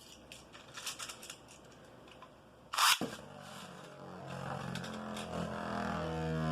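Beyblade tops are launched into a plastic stadium with a single sharp rip about three seconds in, after a few light clicks. The tops then spin and grind against each other and the stadium floor, a whirring hum that grows steadily louder.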